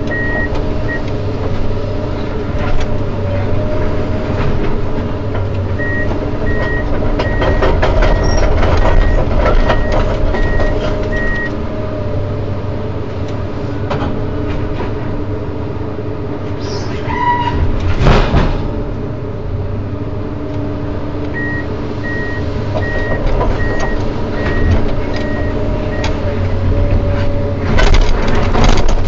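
Komatsu PC210 hydraulic excavator's diesel engine running steadily. Its warning alarm beeps in three spells of regular beeps, and there are a few sharp metallic knocks, the loudest about two thirds of the way through.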